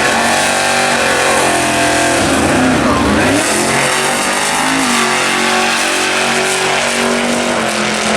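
Drag race cars' engines running loudly, their pitch dipping and rising once about three seconds in and dropping to a lower steady note about five seconds in.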